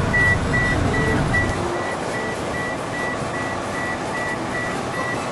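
Electronic beeper giving a steady run of short high beeps of one pitch, about two and a half a second. A low rumble is loud under it for the first two seconds, then drops away.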